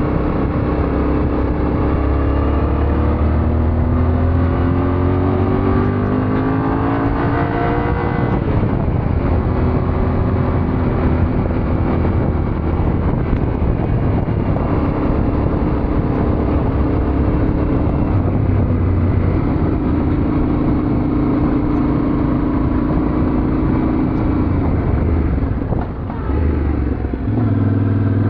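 Yamaha Ténéré 700's parallel-twin engine under way. It revs up for several seconds and drops in pitch at a gear change about eight seconds in. It then runs at fairly steady revs, with a brief dip near the end before it pulls again.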